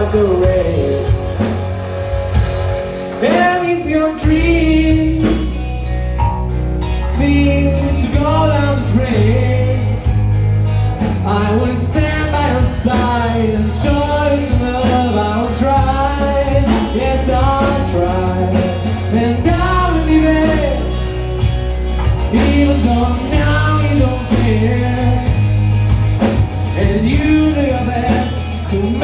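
Live rock band playing a song: bass and drums under a sliding, wavering lead melody.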